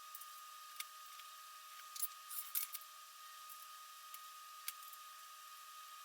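Faint metallic clicks and clinks of clamps being set on steel angle-iron legs: a quick cluster about two seconds in, with single clicks near one and five seconds. A faint steady high hum sits underneath.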